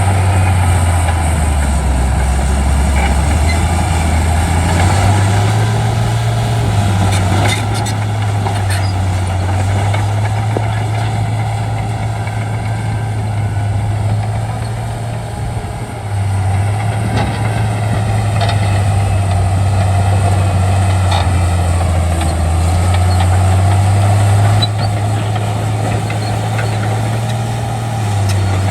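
Shantui D95 bulldozer's diesel engine working steadily while pushing, its pitch dipping and rising several times as the load changes. A few short knocks are heard about a third of the way in.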